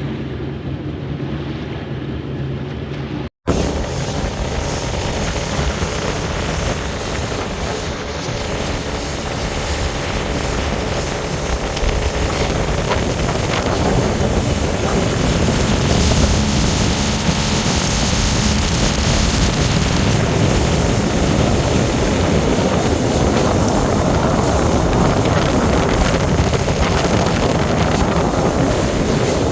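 Small motorboat under way, its engine running steadily with wind on the microphone and water rushing past the hull. About three and a half seconds in the sound drops out briefly, then comes back louder and keeps building over the next ten seconds as the boat picks up speed.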